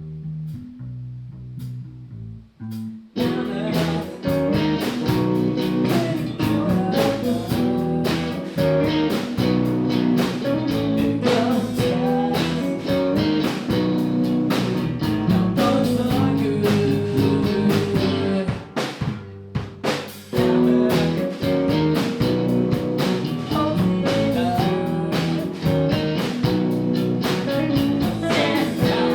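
Live band music with guitar and drum kit: a sparse opening for about three seconds, then the full band comes in; a short break about two-thirds of the way through before the band plays on.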